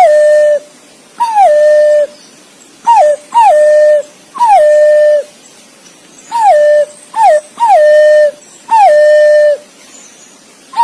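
Green pigeon (punai) calling: about ten clear whistled notes, each dropping in pitch and then held steady, some short and some drawn out. This is the call the bird uses to summon its companions.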